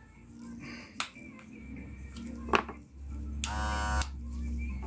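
Wahl Senior electric hair clipper switched on after repair, its motor running with a low steady hum that grows stronger partway through. There are a couple of sharp clicks before it and a brief higher buzz near the middle. The barber hears it as the machine's original running sound restored.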